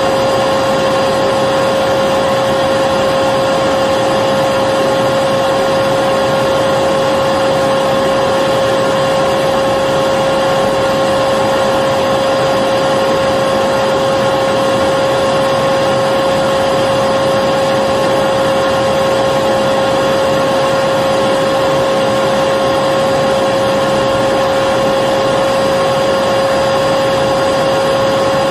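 Vacuum cleaner motor running steadily, with an even high whine over a rushing hiss that doesn't change.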